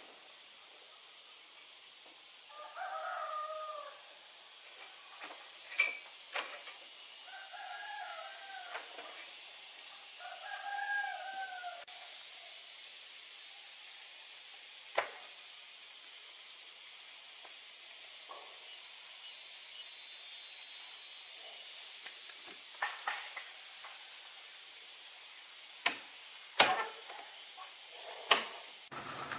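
A rooster crowing three times in the first half, each crow about a second and a half long, over a steady high hiss. A few sharp knocks follow in the second half.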